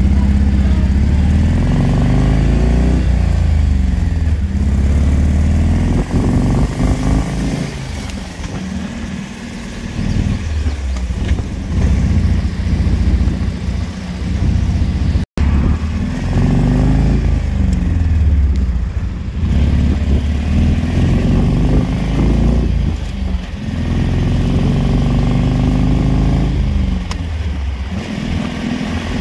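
The air-cooled Citroën flat-twin engine of a Lomax 223 roadster, under way and pulling up through the gears. Its pitch climbs in each gear and drops at each gear change, over and over.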